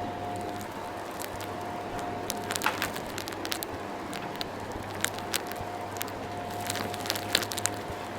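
Vacuum cleaner running steadily, with irregular crackles and clicks of grit and debris being sucked up through the nozzle.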